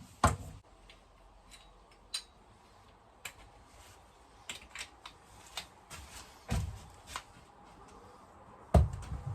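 Scattered light clicks and a few dull knocks from parts and tools being handled while the water pump's mounting position is marked out.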